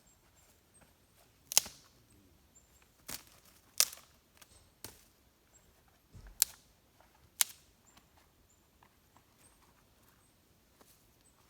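A series of sharp clicks and knocks, about six loud ones at irregular intervals of one to two seconds, with fainter ticks between them.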